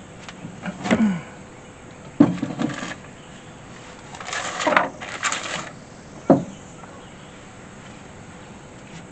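Objects being handled: a few knocks and clunks, with a short burst of rustling and scraping in the middle.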